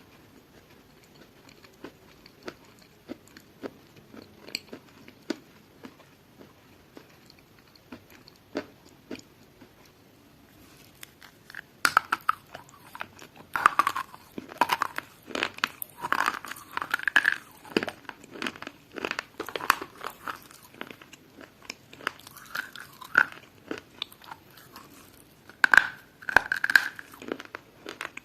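A person chewing crunchy food: soft sparse clicks and mouth sounds at first, then from about twelve seconds in, loud crisp crunching bites and chews in quick irregular bursts.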